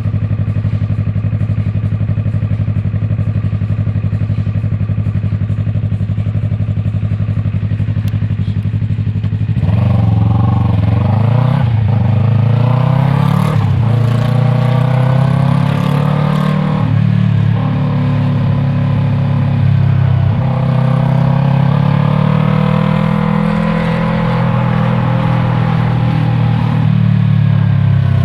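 Yamaha MT-03's 321 cc parallel-twin engine, breathing through an aftermarket Arashi exhaust, idling steadily. About nine and a half seconds in it pulls away and accelerates, its pitch rising and dropping back several times as it shifts up through the gears, then it eases off near the end.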